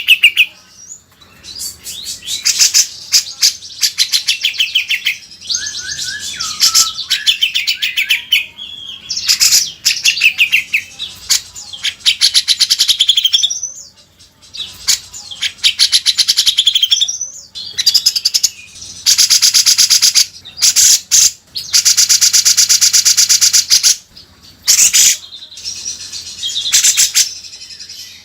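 Cucak jenggot (grey-cheeked bulbul) singing loudly: varied high chirping phrases broken by short pauses, with two long, very fast trills in the second half.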